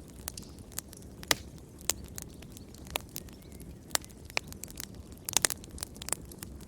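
Wood fire crackling in a fireplace: irregular sharp pops and snaps over a soft low rumble, with a quick cluster of pops about five seconds in.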